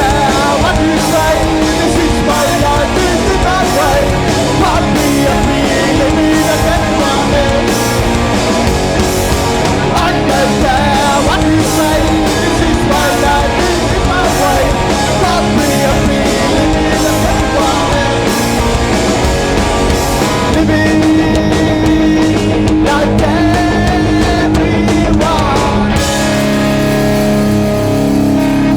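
Oi punk band playing loud live rock with electric guitars, bass and a steady drum beat. About 26 seconds in the drums stop and held chords ring on.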